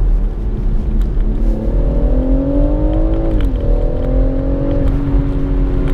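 Stock BMW M140i's 3.0-litre turbocharged straight-six pulling under acceleration: its pitch climbs for about two seconds, drops sharply at a gear change a little past halfway, then holds nearly steady, over a heavy low road rumble.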